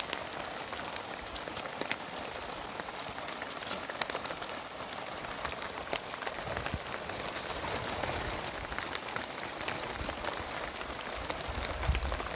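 Heavy rain falling steadily, with many separate drop hits ticking through it and a low rumble near the end.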